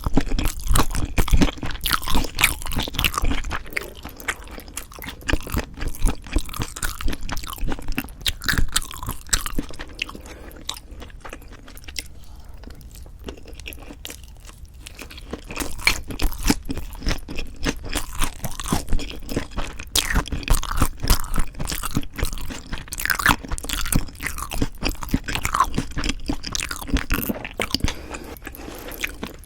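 Close-miked chewing and crunching of leaf-wrapped ssam bites of raw-fish bibimbap and boneless chicken feet, with dense, irregular moist crackles. It is quieter for a stretch in the middle and picks up again about halfway through.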